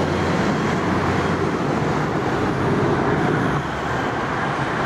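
Steady jet engine noise from a British Airways Airbus A380, with its four Rolls-Royce Trent 900 turbofans, on final approach to land.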